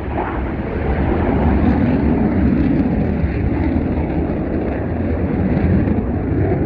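An aircraft flying overhead, a loud, steady rumble of engine noise that swells about a second in and then holds.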